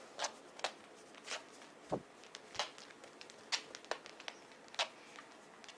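Soft, irregular rustling strokes of a hand patting and rubbing a miniature dachshund's coat, about seven in a few seconds, one with a dull thud under it about two seconds in.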